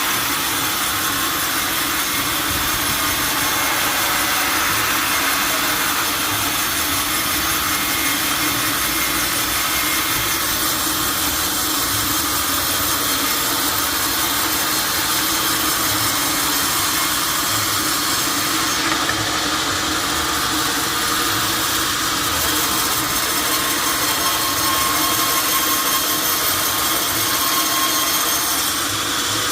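Sawmill saw running through an oak log, a loud, steady, hissing cutting noise without a break.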